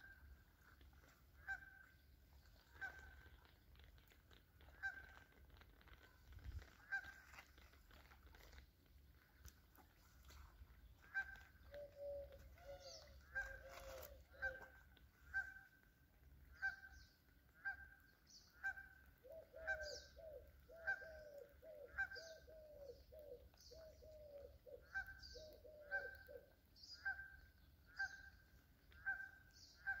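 Birds calling: a steady series of short, repeated calls about once a second, joined in the middle and again over the second half by a lower series of downward-sliding calls.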